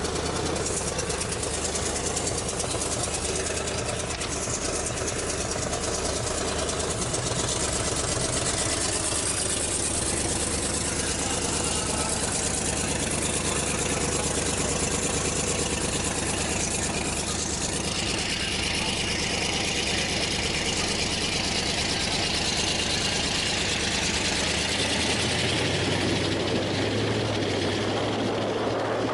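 A car engine running steadily with its exhaust note. Its low pitch shifts slightly about seven seconds in and again near the end.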